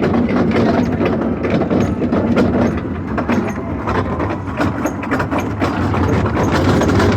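Small amusement-park ride train running, its cars rattling with many quick clicks and knocks over a steady low hum.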